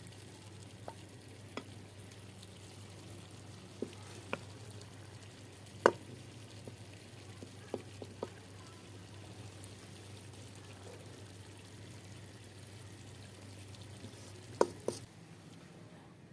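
Baingan chicken curry frying in a pot with a steady low sizzle, and a spoon knocking against the pot now and then as it is stirred. The loudest knock comes about six seconds in, and two more come close together near the end.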